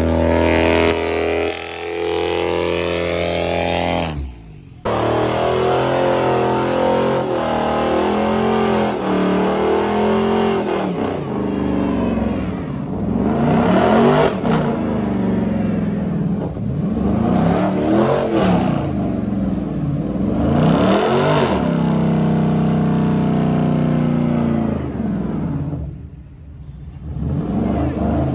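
A car doing a burnout: the engine revs hard again and again, its pitch climbing and falling, over the hiss of spinning tyres. The sound dips out briefly twice, about four seconds in and near the end.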